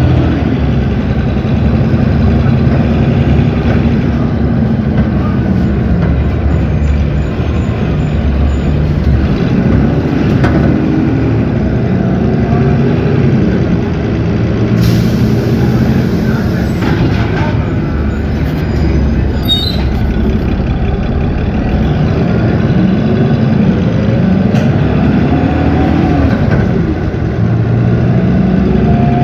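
Cummins ISB 6.7 diesel engine of an Agrale MT17 city bus running under way, its pitch rising and falling again and again as it pulls away and slows. A short hiss of air about halfway through.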